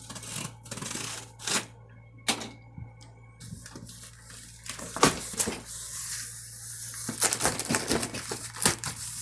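A blade cutting through packing tape on a cardboard box, with scratchy crackling of the tape and cardboard and a few sharp clicks and knocks as the box is handled.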